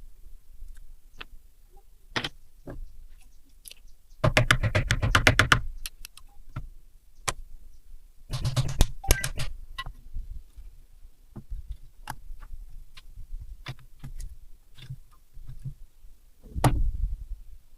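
Metal tools and small parts clicking and rattling as they are handled: scattered single clicks, two longer rattling bursts of rapid clicks about four and eight seconds in, and a thump near the end.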